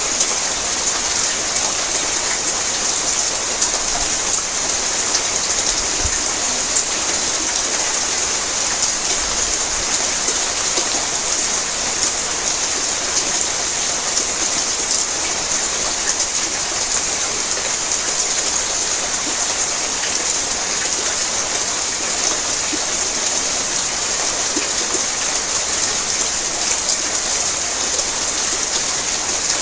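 Heavy rain falling on a tin roof: a steady, dense patter of countless drops on the metal with a hiss, unchanging throughout.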